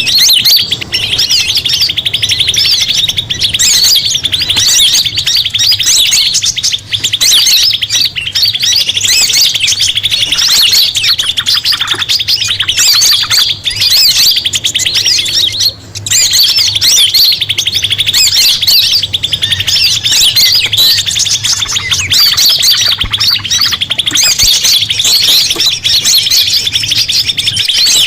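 Bird-lure playback of small songbirds: dense, nonstop high chirping and trilling, with one brief break about sixteen seconds in.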